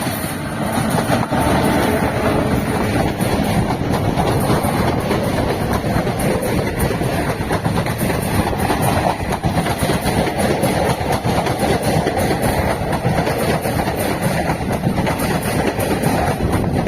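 Passenger train of ICF coaches passing at speed close by, a steady rush of wheel and rail noise with rapid clicking as the wheels run over the rail joints. It swells in the first second or two, then holds.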